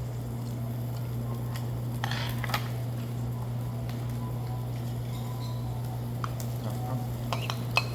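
Steady low hum with scattered light clicks and clinks of tableware during a meal, a few about two seconds in and several sharper ones near the end.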